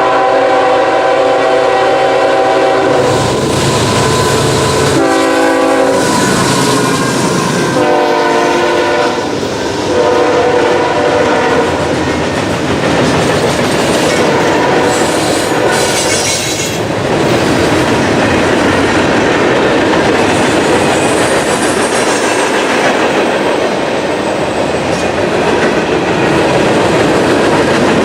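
Freight train's locomotive sounds its horn, a chord of several notes, in four blasts: a long one, then three shorter. The train then rolls past with a steady rumble and rhythmic clickety-clack of wheels over rail joints.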